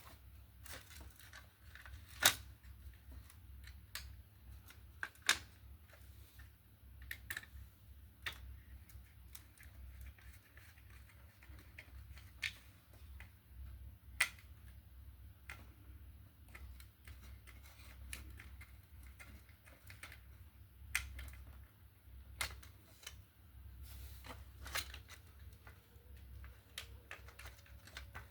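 Irregular sharp clicks and light taps from hands working on a battery fan light's plastic parts and small tools, over a low steady hum.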